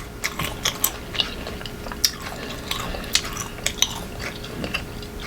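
Close-up mouth sounds of someone biting and chewing crunchy unripe green mango: a run of sharp, irregular crunches and clicks.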